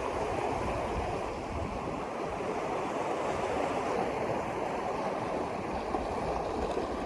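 Steady rushing noise of moving water, with no clear tones or knocks.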